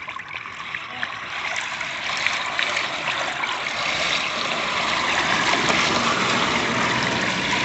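Floodwater rushing down into a storm drain that has just been cleared of leaves, the flow growing steadily louder as the drain opens up.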